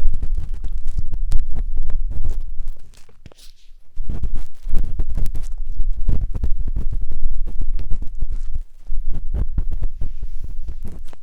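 A matchstick scraping and rubbing inside the silicone ear of a 3Dio binaural microphone. Up close it is a loud, rumbling scratching full of fine crackles, with a short pause about three seconds in and another near nine seconds.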